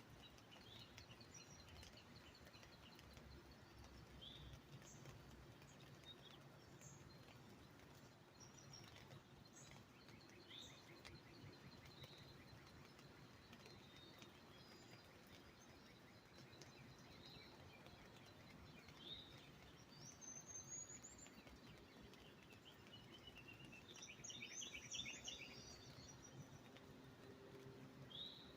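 Birds chirping and calling: short, sharp chirps scattered throughout, with a quick run of notes about 24 seconds in, over a faint outdoor background.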